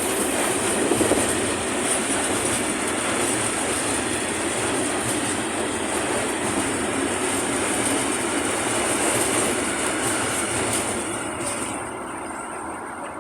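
A train passing over a level crossing, its wheels clattering on the rails with a steady high-pitched ring above the rumble, dying away from about eleven seconds in.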